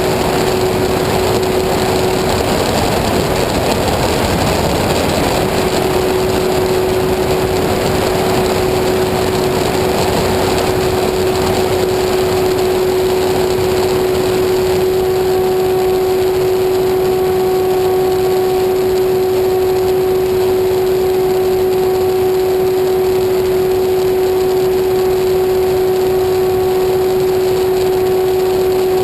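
Small engine of a homemade aircraft running steadily at constant speed, holding one even pitch with a hissing rush over it; a second, higher tone joins about halfway through.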